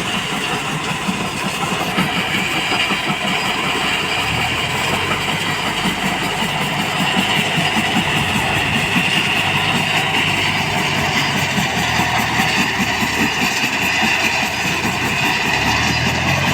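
Heavy diesel machinery engine running steadily, with a deeper low hum that comes in about four seconds in, fades, and returns near the end.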